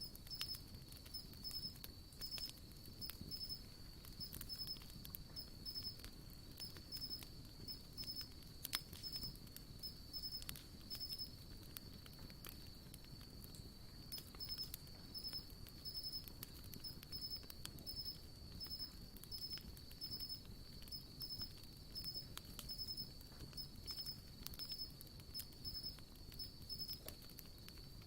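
Wood campfire crackling, with frequent small irregular pops and one louder pop about nine seconds in. A steady high-pitched pulsing trill runs behind it.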